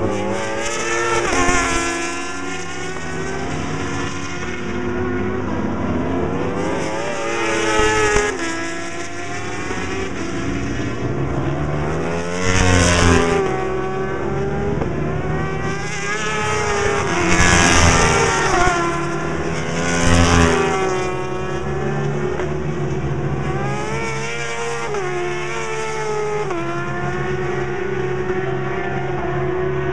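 Superbike race motorcycles with inline-four engines (Yamaha R1, Suzuki GSX-R) at full throttle, passing one after another as they accelerate. The engine pitch climbs and drops back through upshifts, with several loud close passes.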